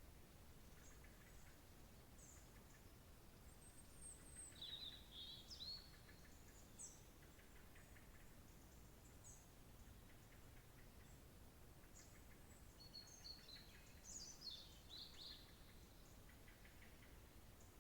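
Small songbirds singing faintly over a low background hiss: short high chirps and quick whistled phrases that come in two bursts, about four seconds in and again about thirteen seconds in.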